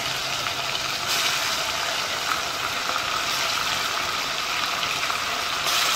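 Chicken pieces frying in hot oil and burnt sugar in a pot, a steady sizzle that gets louder about a second in: the chicken is browning in the caramelised sugar used in place of bottled browning.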